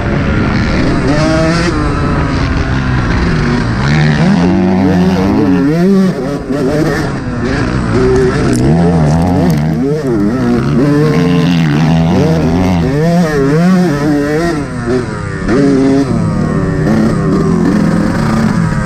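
Yamaha YZ125's single-cylinder two-stroke engine being ridden hard on a motocross track, its pitch climbing and falling every second or two as the throttle is opened and shut. There are brief drops in the engine sound about six seconds in and again near fifteen seconds.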